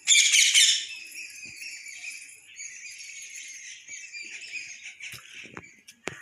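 Many small birds chirping and twittering, loudest and densest in the first second, then continuing more quietly. A sharp click sounds just before the end.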